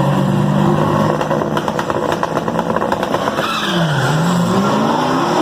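Muscle car engine at a drag strip running loud, with a run of crackles and pops about two seconds in. Near the end the pitch drops, then climbs again as the revs rise.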